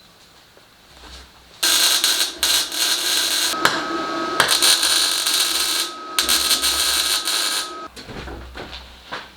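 A power tool running in two long bursts, a loud, steady, hissing whine, with a short break about two-thirds of the way through before it stops near the end.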